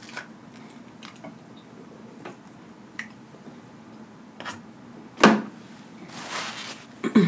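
Close-miked chewing of lobster tail meat, with scattered soft wet mouth clicks and smacks and one sharp louder click about five seconds in.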